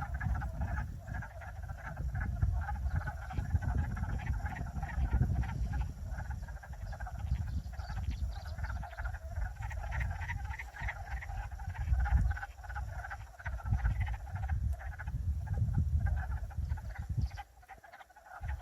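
A chorus of frogs calling steadily from the spring wetland, many rapid pulsing calls overlapping, over a low rumble.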